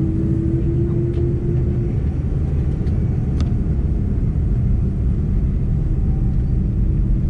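Airbus A330-300 jet airliner, a steady deep rumble with a droning hum that stops about two seconds in.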